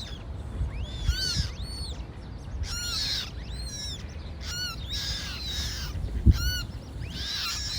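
Young coots calling over and over with high, rising-and-falling peeps while begging for food. A single sharp knock comes a little after six seconds in.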